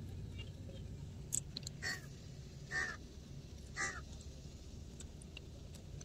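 A bird calling faintly three times, short cawing calls about a second apart, over a low steady rumble.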